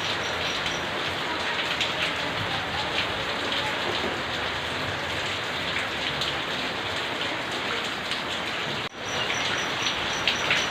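Steady rain falling on surfaces: a dense, even hiss with scattered drop taps. The sound dips out briefly about nine seconds in, and a faint high chirp repeats a few times a second at the start and again near the end.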